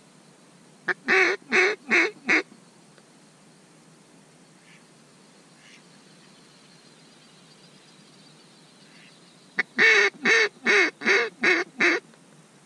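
Waterfowl call blown in two loud series of quacking notes: four quick notes about a second in, then six more near the end, each series opened by a short click.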